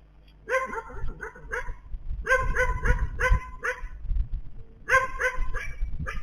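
An animal giving short, repeated bark-like calls, about three a second, in three bursts.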